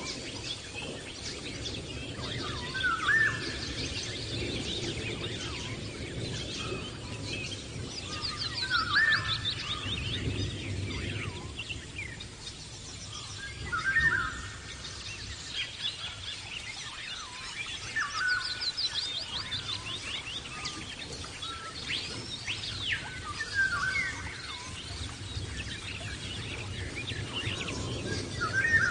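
Several birds singing and calling over a steady background of outdoor noise: one bird repeats a short call every few seconds, while others give fast high trills.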